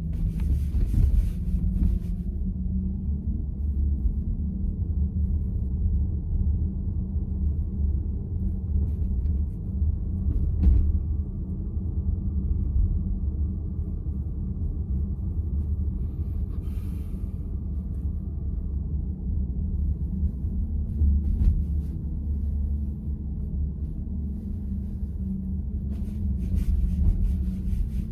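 Low, steady road and tyre rumble heard inside the cabin of a moving VW ID.4 electric SUV, with a faint thin tone for several seconds midway.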